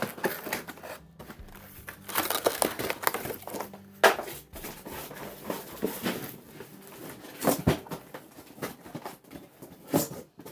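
A cardboard box being opened and handled: cardboard flaps and packing rustling, scraping and crinkling in irregular bursts, with a few sharp knocks, the loudest about four seconds in.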